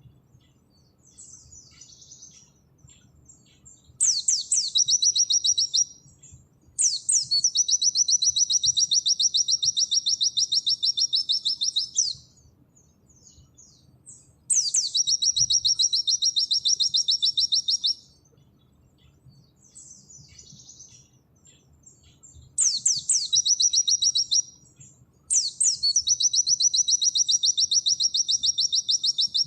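A pleci (white-eye) singing its fast 'nembak' song: five long trills of rapidly repeated high notes, each lasting two to five seconds, with soft twittering in the pauses between them.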